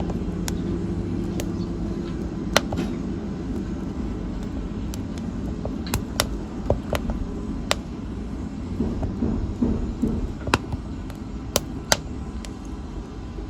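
Wood fire crackling: sharp, irregular pops and snaps over a low, steady rumble of burning.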